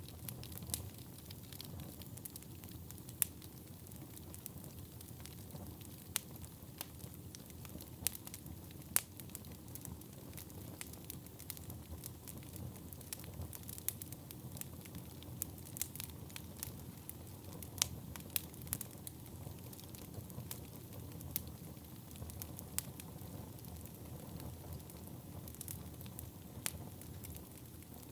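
Wood fire burning in a fireplace: a steady low rumble of flames with sharp, irregular crackles and pops from the burning logs, several a second.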